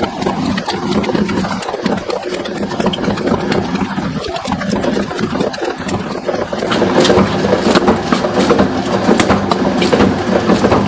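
Electric motor of a bakery machine running steadily with a low hum, with scattered sharp knocks, a little louder in the second half.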